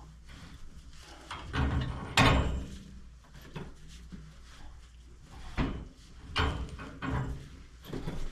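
Pipe wrench cranking a union half onto threaded 1-inch black iron pipe: a series of irregular scraping clunks, the loudest about two seconds in.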